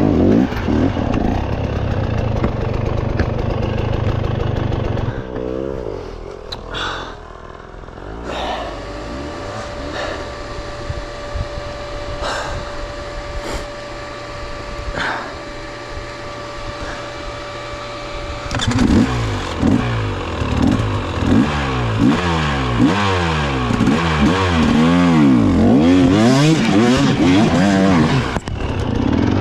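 Off-road dirt bike engine under the rider. It revs and falls off, settles to a steady idle for about ten seconds mid-way, then revs up and down quickly again as the throttle is worked over rough ground.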